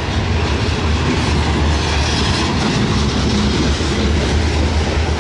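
Added sound effect of a full-size train running: a steady, loud low rumble.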